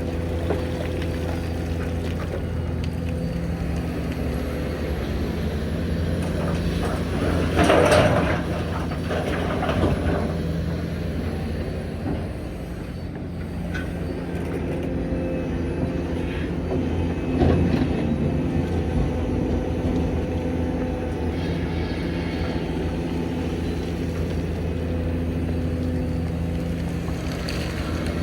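Hitachi Zaxis 490LCH excavator's diesel engine running steadily, with loud spells of clattering and rumbling about eight seconds in and again near eighteen seconds in.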